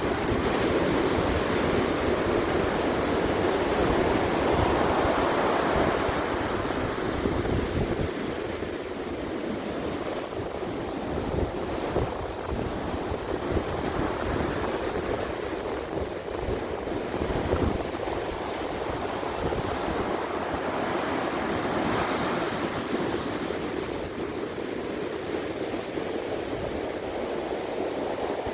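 Ocean surf washing in continuously, swelling loudest in the first few seconds and again near the end, with wind rumbling on the microphone.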